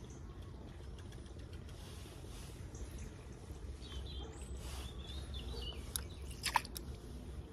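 Low steady outdoor rumble with a bird's short, wavering high call in the middle. A couple of sharp clicks come near the end and are the loudest sounds.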